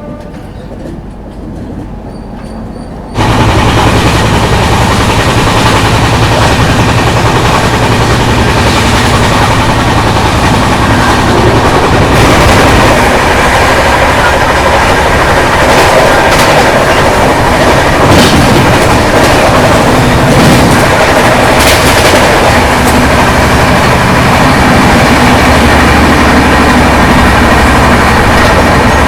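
Express passenger train running at speed: a loud, steady rush and rumble of the coaches on the track, which jumps sharply louder about three seconds in.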